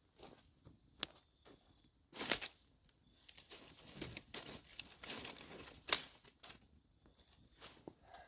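Rustling and handling noises with a few sharp clicks, the loudest about a second in and about six seconds in.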